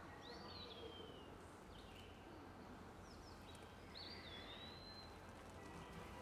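Near silence: quiet room tone with faint birdsong, a few thin whistled calls that rise and fall, one just after the start and another about four seconds in, with short chirps between.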